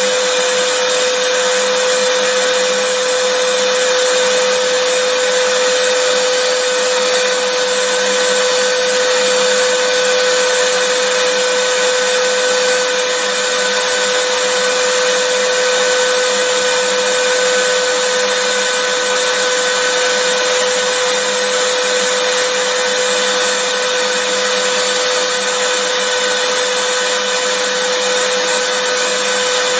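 Vacuum cleaner running steadily: an unchanging motor hum with one strong steady tone, over a constant rush of air.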